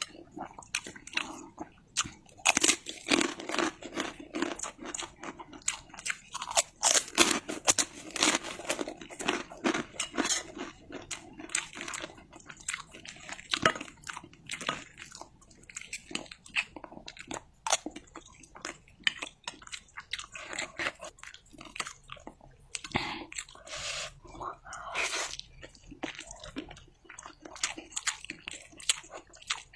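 Close-up eating sounds: mouthfuls of fried instant noodles with egg and chilies being chewed, with frequent irregular crunching bites.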